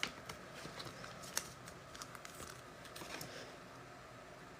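Faint handling of trading cards: soft scattered clicks and rustles as cards are flipped through and laid down, with a sharper click just after the start and another about a second and a half in.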